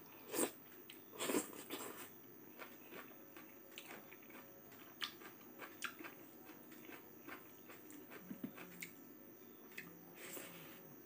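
Close-miked eating sounds of a person biting into and chewing a mouthful of cooked leafy greens: two loud bites about half a second and a second and a half in, then softer chewing with many small clicks.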